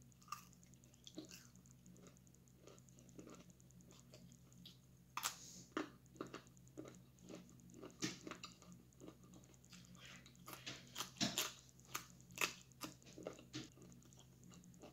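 Close-up chewing with irregular crisp crunches as a person eats slices of raw black radish, the crunches sparse at first and coming thickly from about five seconds in.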